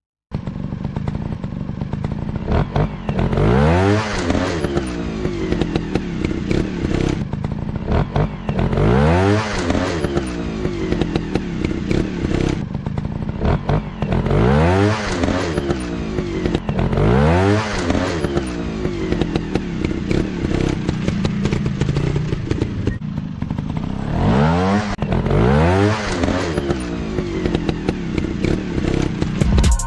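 Single-cylinder trail bike engines revving up and dropping back again and again, roughly every two to three seconds, as the bikes are ridden hard off-road, with clattering and scraping mixed in.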